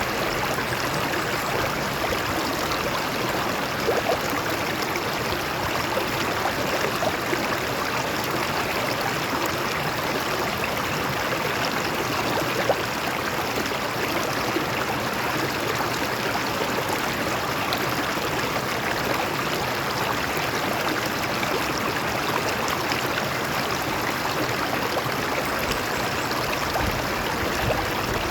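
Stream water flowing and splashing over rocks, a steady even rush with small splashes and gurgles.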